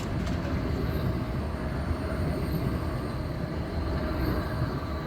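Škoda 52T ForCity Alpha low-floor tram running along street track: a steady rolling rumble of wheels on rail with faint high steady tones over it.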